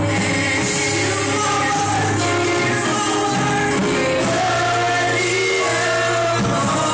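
Live gospel worship music: voices singing together over a band.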